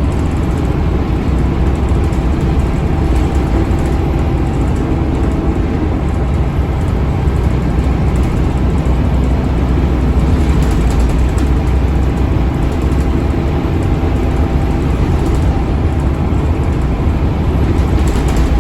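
Scania K280UB bus's DC9 five-cylinder diesel engine running steadily under way, a low drone with tyre and road noise.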